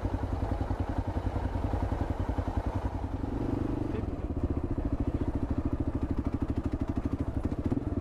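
Single-cylinder 650 cc dual-sport motorcycle engine running at low revs with an even, rapid pulse. The note changes briefly about three seconds in, then settles back into the same beat.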